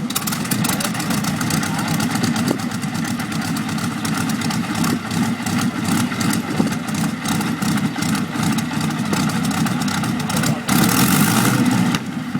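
Vintage aeroplane piston engine running, a fast steady rattle of firing strokes, growing louder and harsher for a second or so near the end.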